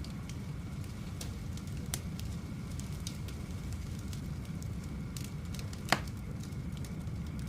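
Wood campfire burning, with scattered sharp crackles and pops over a steady low rumble; the loudest pop comes about six seconds in.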